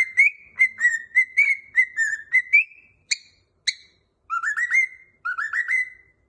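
Cockatiel whistling a tune: a run of short rising whistled notes, two sharper chirps about three seconds in, then two more quick runs of rising notes.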